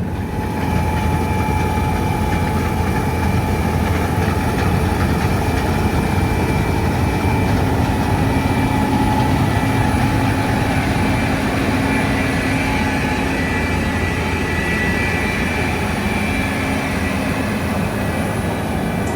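Heavy farm machinery running steadily at harvest: a deep, even engine drone with a faint steady whine above it.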